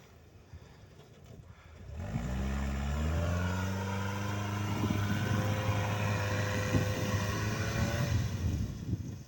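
The all-terrain vehicle's Toyota 1NZ-FE 1.5-litre four-cylinder engine revs up about two seconds in, holds steady high revs for several seconds, then drops away near the end.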